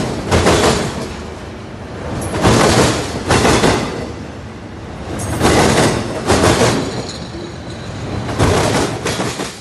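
Train wheels rolling over a railway crossing diamond. Each time wheels pass over the rail gaps they make a double knock, the two hits about a second apart, and the pairs repeat roughly every three seconds over a low rolling rumble.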